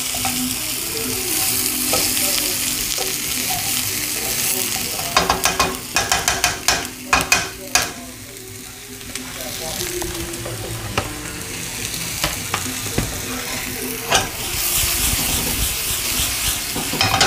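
Sliced potatoes and onions frying in grease in a metal skillet, sizzling steadily. Between about five and eight seconds in, a utensil scrapes and taps against the pan in a quick run, and the sizzle swells again near the end.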